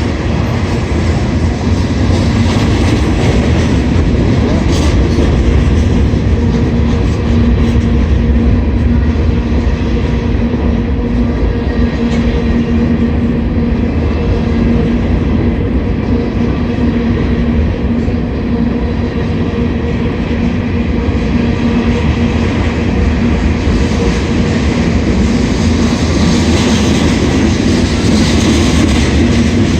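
Slow-moving freight train rolling steadily past, its railcars' wheels running over the rails, with a steady low tone under the rumble.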